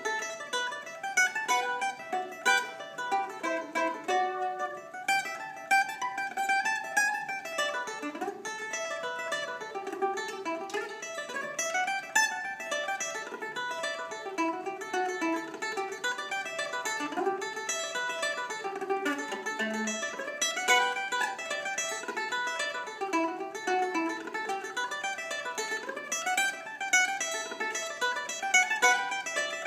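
A plucked, fretted string instrument picking a tune as a quick, steady run of single notes.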